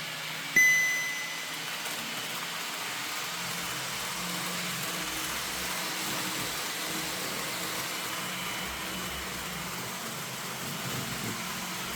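Sound-fitted model Pendolino train running at full speed round the layout: a steady hissing run with a low electric hum. About half a second in, a sharp ringing tone sounds once and fades over about a second.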